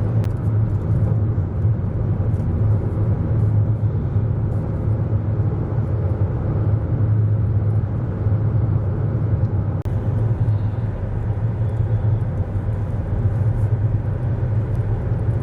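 Steady low rumble of road and engine noise inside a moving car's cabin, cruising along a highway.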